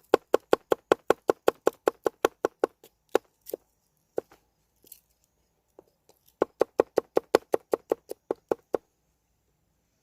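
Knife chopping food on a cutting board in quick, even strokes, about six a second. The chopping runs for a few seconds, pauses with a few single cuts, then resumes in a second quick run.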